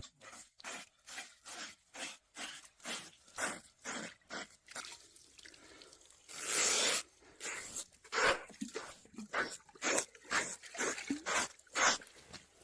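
Repeated rasping strokes of a blade scraping the burnt skin of a pig carcass, about two to three a second, with a longer rush of noise about six seconds in.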